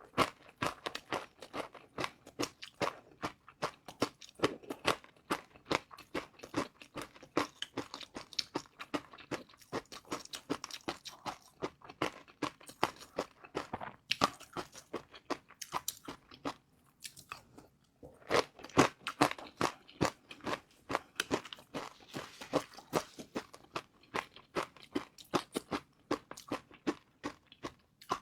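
Close-miked chewing of crispy fried noodles: a rapid, irregular run of crunches, with a brief pause a little past the middle followed by louder bites.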